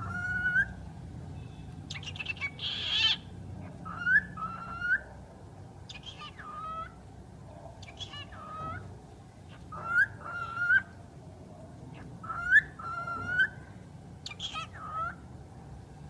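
Pet talking bird calling over and over: short whistled calls that rise in pitch, repeating about every two seconds, with one harsher, noisier call about three seconds in.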